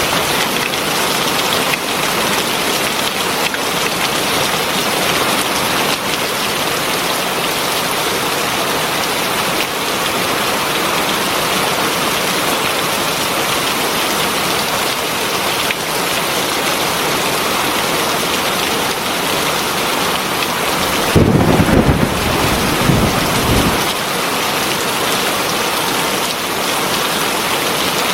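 Heavy rain falling steadily, a dense even hiss of drops. About three quarters of the way through, a low rumble of thunder swells for a few seconds, then dies away.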